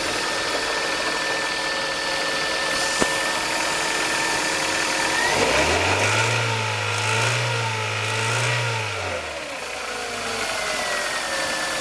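Hyundai Elantra HD's 1.6-litre four-cylinder engine idling, then revved once about five seconds in, held for a few seconds and let drop back to idle. The owner is chasing an unexplained knock that starts from about 2500 rpm and clears after 30–40 minutes of running.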